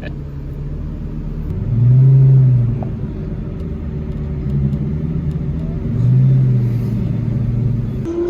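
Lamborghini Gallardo Superleggera's V10 with aftermarket exhaust and high-flow cats, running under throttle. Its low note swells loudly twice, about two seconds in and again about six seconds in.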